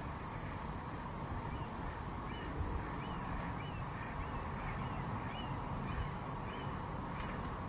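A bird calling in a run of short, faint, repeated notes, about two a second, over a steady background rush with low rumble.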